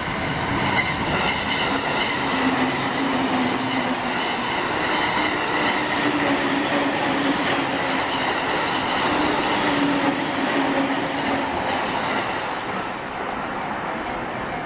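A train passing close by at a level crossing, its wheels running over the rails in a steady loud rush; the noise eases off about twelve and a half seconds in as the train clears.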